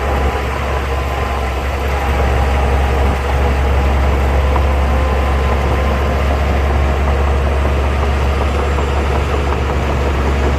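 Heavy earthmoving machine's diesel engine running steadily with a deep rumble.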